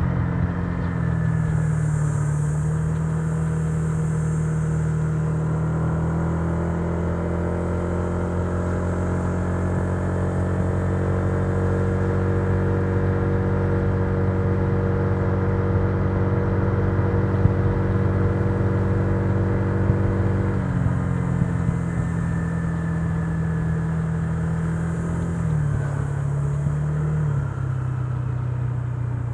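Honda Giorno 125 scooter's single-cylinder engine running at a steady cruising speed. Its note holds level for most of the time, drops a little about two-thirds through as the throttle eases, then briefly rises and falls again near the end.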